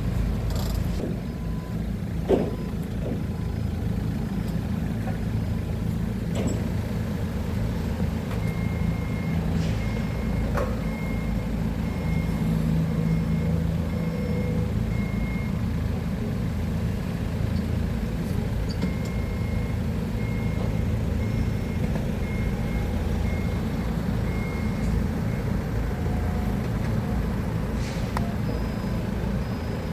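Forklift engine running steadily, with its reversing alarm beeping at about one and a half beeps a second in two stretches, while the machine backs up. A few isolated knocks.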